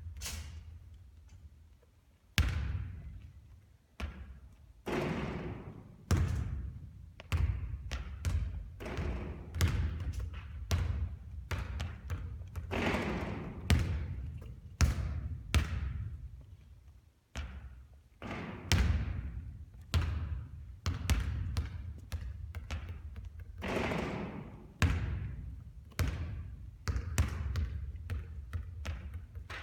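Basketballs bouncing on a hard court during repeated shooting: sharp impacts about every one to two seconds, each with an echoing tail, starting about two seconds in.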